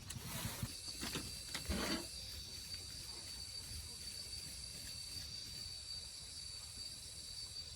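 Insects in the fields giving a steady, high-pitched drone over an even outdoor hiss. A few brief rustles come in the first two seconds.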